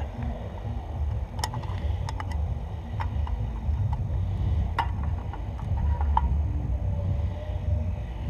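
Scattered sharp clicks and knocks of a portable coffee-maker set and its parts being unpacked and handled, over a steady low wind rumble on the microphone.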